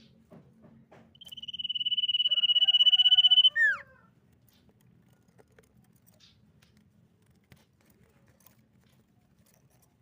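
Common iora calling: one long, finely trilled whistle on a steady high pitch that grows louder over about two seconds, then ends in a quick falling note.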